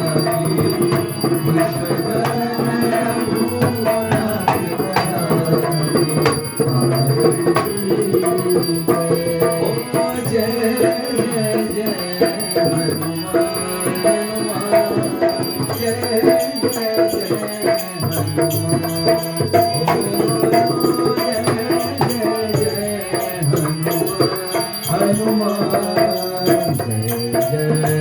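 Arti, a Hindu devotional hymn, sung to a steady rhythm of hand drum and ringing bells.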